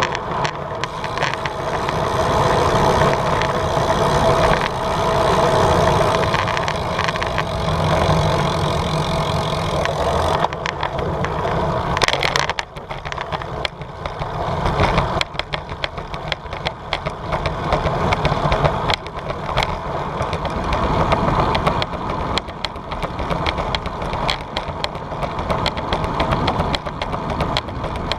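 Wind and road noise from riding a bicycle with a GoPro, with a continuous rushing and rumbling. Frequent small clicks and rattles run through it, and the sound changes character about halfway through.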